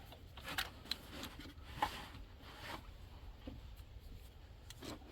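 Faint, scattered clicks and light scraping of hand tools against metal parts under the car, a few separate ticks spread over several seconds.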